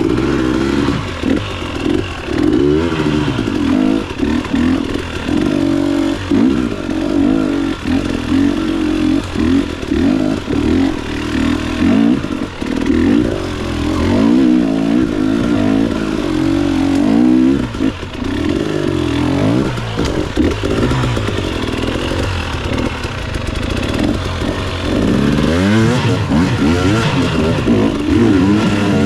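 Motorcycles riding, their engines rising and falling in pitch again and again as the throttle opens and closes, several engine notes overlapping.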